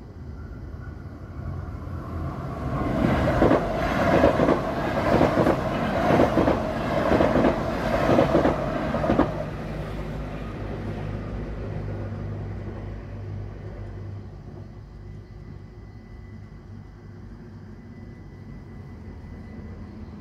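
A train passing over a level crossing. The rumble rises, then the wheels clatter rhythmically over the rails for about six seconds, stopping fairly suddenly about nine seconds in. A fading rumble follows.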